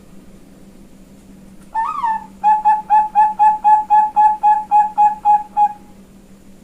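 Female Bangkok-line zebra dove (perkutut) cooing one song: an opening note that rises and falls, then a fast even run of about a dozen short coos, roughly four a second, ending near the end.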